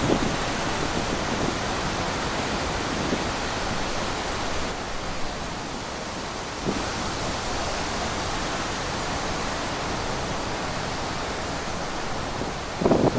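Wind blowing steadily, an even rushing noise with a couple of brief gusts in the middle.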